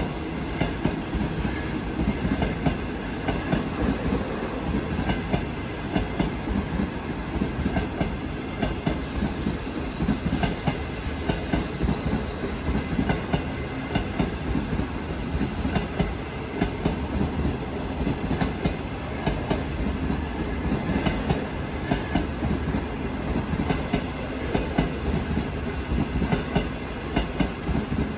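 A train rolling past, its wheels clacking over the rails in a long, steady run of clicks and knocks.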